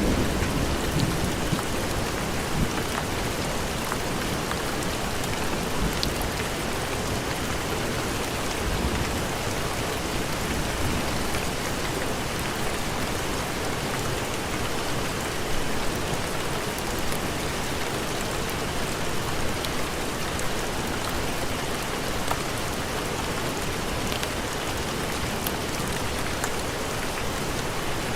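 Steady heavy rain, with a low thunder rumble dying away about a second in.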